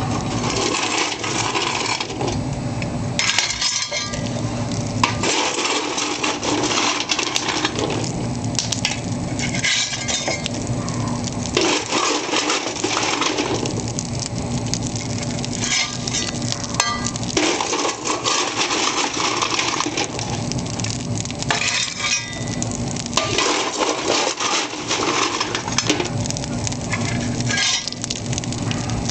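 Lumps of nut coal clinking and clattering against each other and the metal of a wood furnace's firebox as coal is added, over the continuous crackle and hiss of the burning wood fire.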